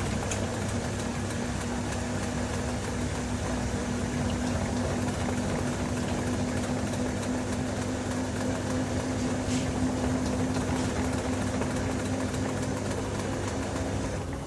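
LG TurboDrum top-loading washing machine running mid-cycle: a steady motor hum over the noisy churn of a load of bedding, the hum dropping away right at the end.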